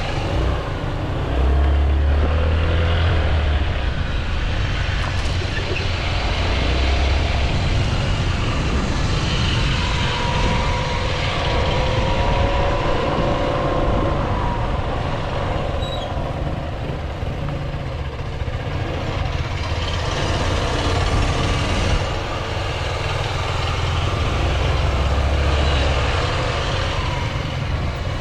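Motorcycle engine running, with slow rises and falls in pitch, over a heavy low rumble.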